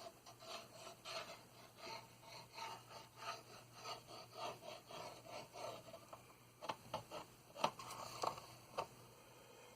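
Faint rhythmic rubbing strokes on plastic model kit parts, about one and a half a second, followed by a few light clicks and knocks near the end.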